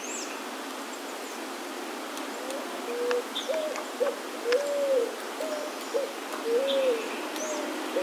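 A bird giving a run of short, low hooting notes, about two a second, that begins a couple of seconds in. A few high chirps from other birds sound now and then.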